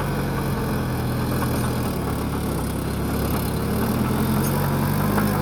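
Bulldozer's diesel engine running as it works. Its note sags and weakens about two seconds in, then picks up again near four seconds.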